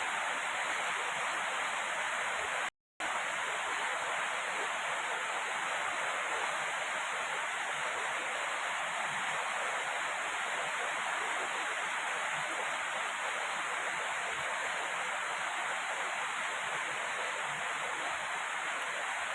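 Steady heavy rain, an even rushing hiss, broken by a moment of dead silence about three seconds in.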